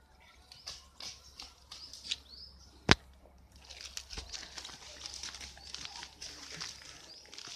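Small birds chirping in short falling notes over a light rustling, with one sharp click about three seconds in.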